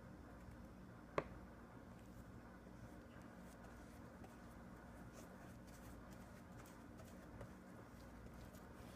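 Near silence: a steady low room hum, with one sharp click about a second in and a few faint small ticks later on.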